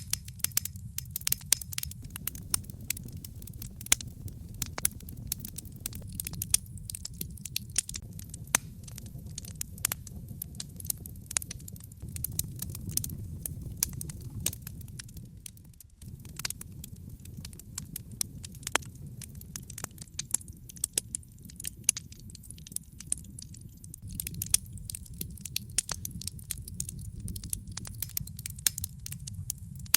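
Wood logs burning in a fireplace, crackling with frequent irregular sharp pops over a steady low rush of the flames.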